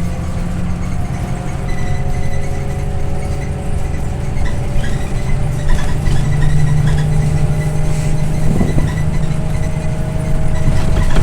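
Scania OmniLink I city bus's diesel engine and drivetrain running under way, heard from inside the bus, the pitch slowly rising as it gains speed. A brief rattle or knock comes about eight seconds in.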